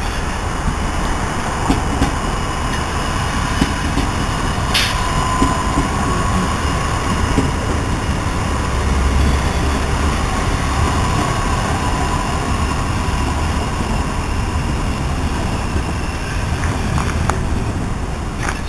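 Electric regional train passing slowly along the station tracks: a steady rumble of wheels on rails, with a few sharp clicks and a faint high whine in the middle.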